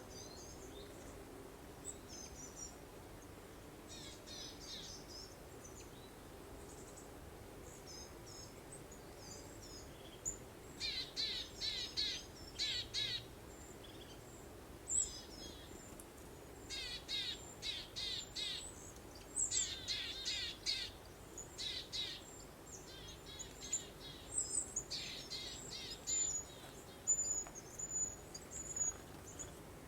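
Songbirds singing and chirping in quick trills and repeated notes over a faint steady breeze. The singing is sparse at first and grows busier after about ten seconds.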